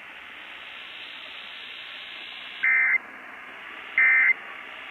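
Weather radio receiver hiss, then two short, loud warbling data bursts about 1.3 seconds apart, part of the three-burst EAS/SAME end-of-message (NNNN) code that marks the end of the flood warning broadcast.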